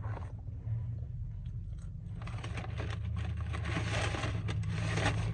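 A person chewing french fries close to the microphone: a run of small crunches and mouth clicks that thickens from about two seconds in, over a steady low hum.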